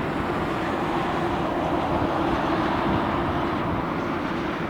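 Jet airliner engines running: a steady rumble and rush with a constant droning tone, swelling slightly midway.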